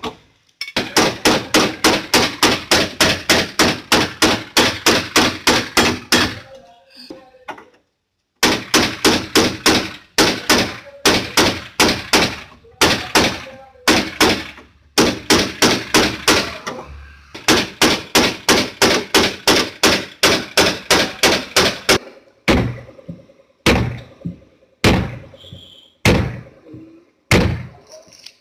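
A hammer striking the damaged sheet-metal boot lid of a BMW in fast, steady runs of about three to four blows a second, beating out the dents; the blows pause briefly about seven seconds in and become slower and more spaced near the end.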